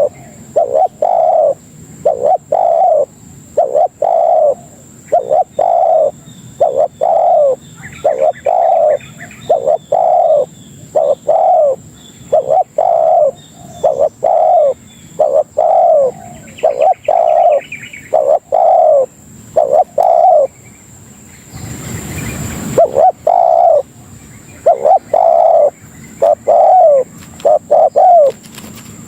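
Spotted dove (tekukur) cooing: a long run of short coos, roughly one a second, broken briefly about two-thirds of the way by a burst of rushing noise. A small bird chirps faintly twice.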